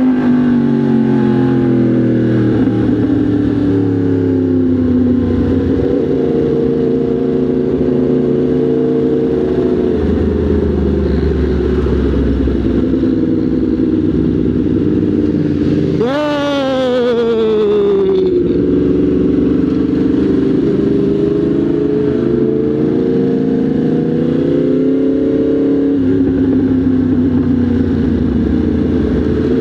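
Motorcycle engine running under way, its pitch rising and falling with throttle and gear changes. About sixteen seconds in it revs sharply, climbing quickly, then dropping back over about two seconds.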